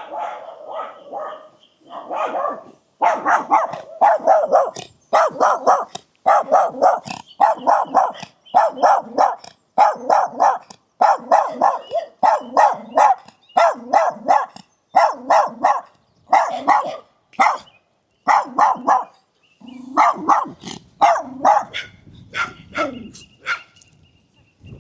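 A dog barking loudly and over and over, in quick runs of two or three barks.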